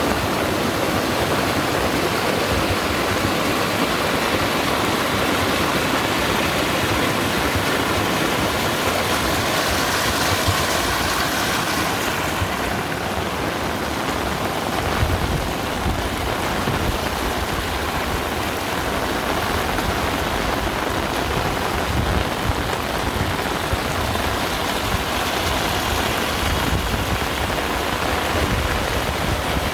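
Heavy rain pouring steadily as a dense, even hiss. About halfway through, the high hiss softens and a low rumble comes in underneath.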